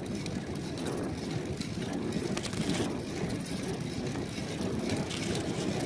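Schwinn bicycle riding along a street, heard through a phone taped to the front of the bike: a steady rumble of wind and road noise with a few light clicks and rattles.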